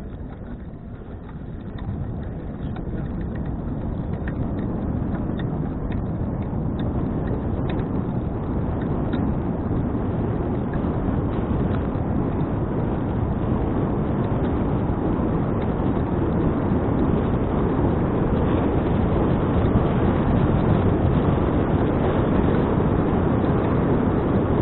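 Wind rushing over an action camera's microphone on a moving bicycle: a steady roar that grows louder over the first ten seconds as the bike picks up speed, then holds.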